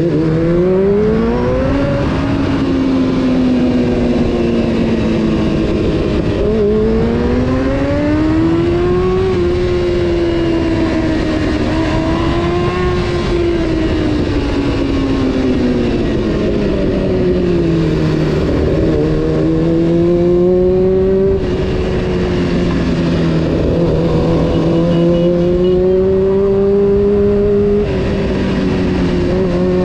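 Honda CBR600F4's inline-four engine while riding, the revs climbing and falling again and again as the throttle is opened and rolled off. The pitch drops suddenly twice, about two-thirds of the way in and near the end, as at upshifts. A steady rush of wind runs underneath.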